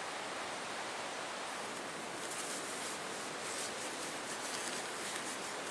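Steady rush of strong wind and Lake Superior surf, with faint rustling from about two seconds in.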